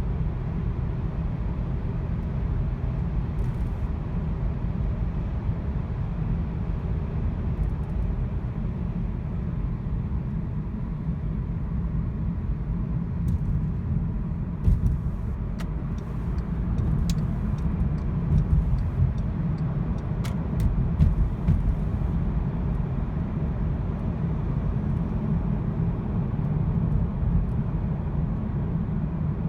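Volkswagen car on the move, a steady low rumble from an engine that is misfiring. Several short sharp clicks come between about 13 and 22 seconds in.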